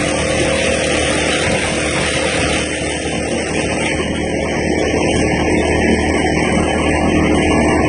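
Small petrol lawnmower engine running steadily.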